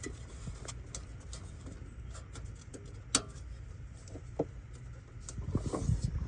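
Scattered metallic clicks and knocks of hand tools and fasteners being handled, the sharpest about three seconds in, with a cluster of knocks near the end, over a low steady rumble.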